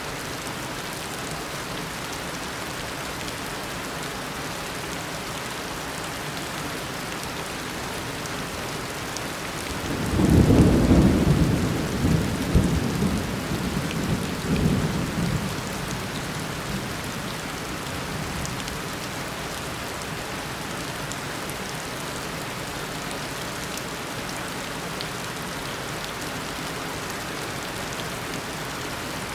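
Steady heavy tropical rain falling, with a loud peal of thunder about ten seconds in that rolls and rumbles in several surges for around six seconds before fading back into the rain.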